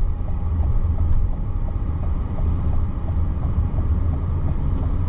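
Car cabin noise, a steady low rumble of road and engine, with a turn signal ticking evenly about two to three times a second.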